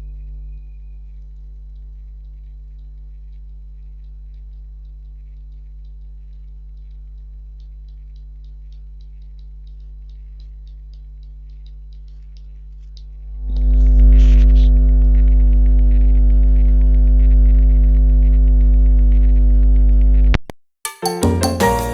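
Steady low hum with evenly spaced overtones that swells much louder about two-thirds of the way in, then cuts off suddenly. Music with a quick beat starts just after.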